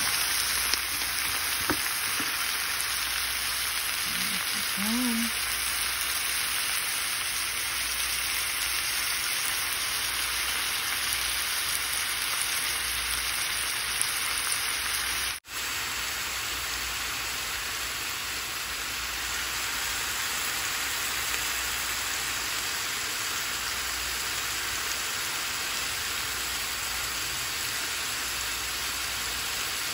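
Sliced brown mushrooms frying in a stainless steel pan: a steady sizzling hiss. The hiss drops out for an instant about halfway through, then carries on as before.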